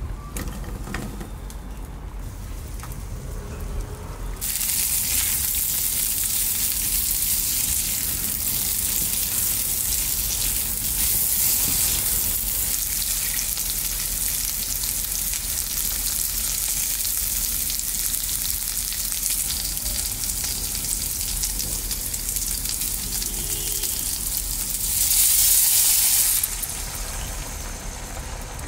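Chopped okra sizzling in hot oil in a wok, the sizzle starting about four seconds in and running steadily. Near the end comes a brief, louder surge of sizzling as the braising sauce goes into the hot pan.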